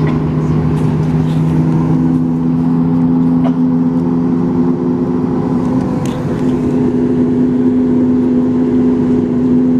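A CFM LEAP-1B turbofan engine on a Boeing 737 MAX 8 running, heard from inside the cabin as a steady low hum with droning tones. About halfway through, the lower tone fades and a somewhat higher tone takes over as the engine's pitch shifts.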